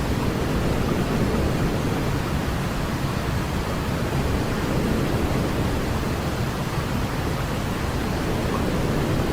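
Steady sleep-aid white noise: an even, unbroken hiss that is weighted toward the low end, like pink noise, with no changes or events.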